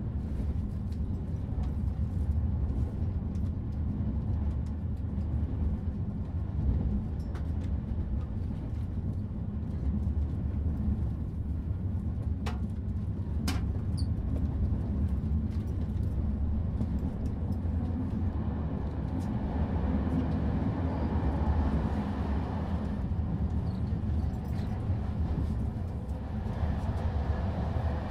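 Passenger train running along the track, heard from aboard: a steady low rumble of the moving cars, with a couple of sharp clicks about halfway through.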